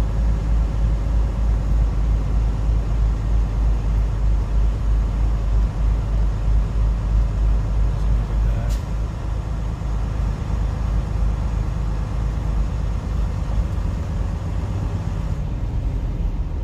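Semi-truck's diesel engine running as the truck drives slowly, heard from inside the cab as a steady low rumble that eases slightly about ten seconds in. A single sharp click comes about nine seconds in.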